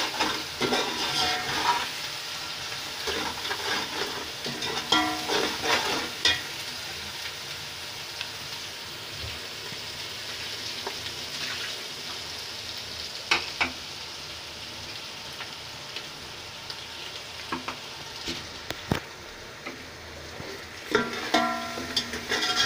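Masala of onion, tomato and spices sizzling in oil in an aluminium pot while a metal spoon stirs it, with scattered scrapes and knocks of the spoon against the pot.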